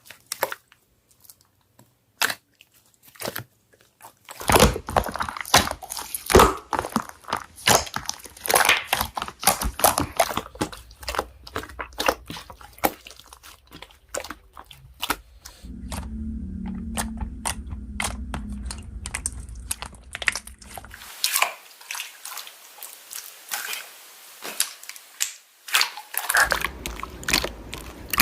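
Slime being squeezed and poked by hand, giving a dense run of sharp crackling clicks and pops.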